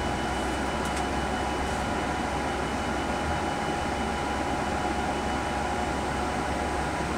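Steady hum of a Boeing 787 flight deck on the ground: air-conditioning and equipment fan noise with a low rumble and a faint steady whine.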